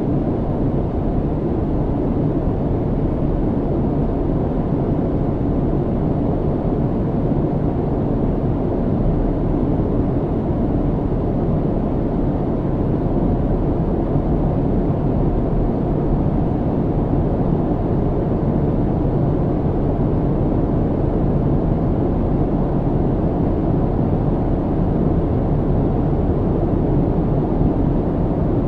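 Airplane cabin noise: a steady, deep, even rumble of engines and rushing air heard from inside the cabin, without change.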